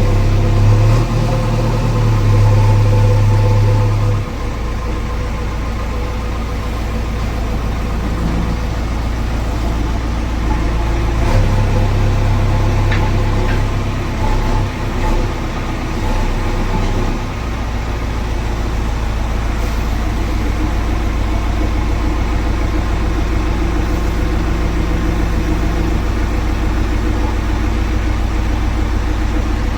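Diesel engine of a JCB machine running steadily; its note shifts up and down a few times as it is worked.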